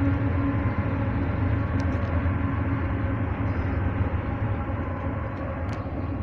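Long freight train rolling past at a good pace: a steady low rumble with a faint steady hum, broken by a few short sharp clicks.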